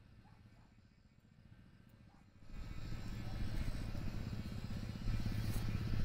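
A motor vehicle's engine, likely a motorcycle, running close by. It comes in suddenly about halfway through as a steady low hum with a fast pulsing throb.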